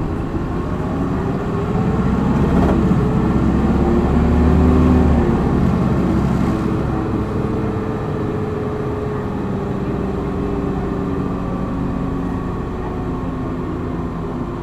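Hino Blue Ribbon city bus's diesel engine pulling hard in power mode, heard from inside the bus. The engine note climbs and is loudest until about five seconds in, then eases off and runs steadier.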